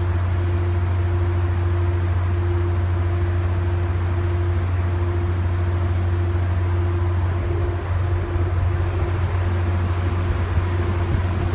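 Steady low hum with a constant higher tone from an idling Caltrain bilevel commuter train standing at the platform, its diesel locomotive and on-board equipment running at rest.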